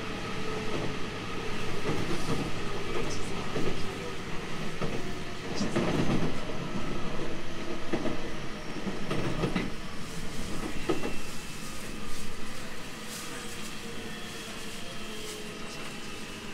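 Running sound of a JR Central 313 series 2500-subseries electric train: wheels and running gear rumbling on the rails, with steady tones over the noise. The sound becomes quieter about twelve to thirteen seconds in.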